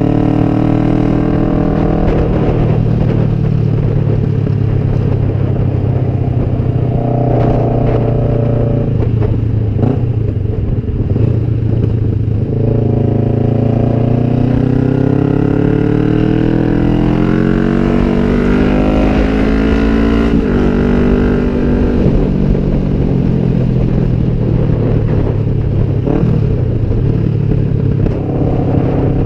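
A 2007 Kawasaki Vulcan 500's parallel-twin engine through drag pipes, heard from the rider's seat while under way. The engine note eases off early, then climbs steadily for several seconds under acceleration and drops abruptly at an upshift about two-thirds of the way in. After that it runs at a steady pitch, with wind noise underneath.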